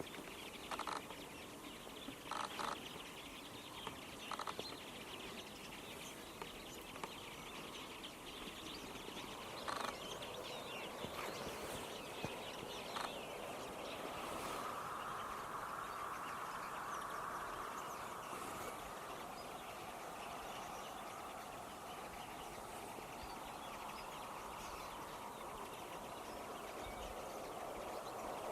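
A flock of common linnets and European greenfinches singing together, a dense chorus of twitters and trills, with a few sharp clicks in the first few seconds. The chorus grows fuller about halfway through.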